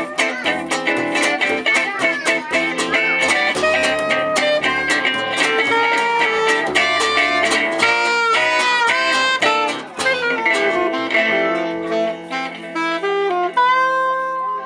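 Live gypsy jazz (jazz manouche) band playing, led by quick plucked acoustic guitar lines. About ten seconds in, the rapid notes give way to longer held notes.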